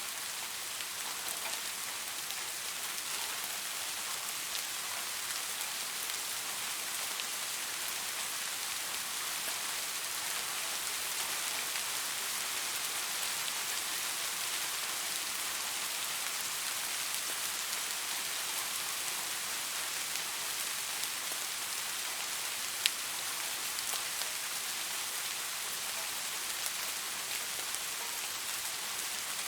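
Steady rain falling: an even hiss with scattered drop ticks and one sharper drip about three quarters of the way through.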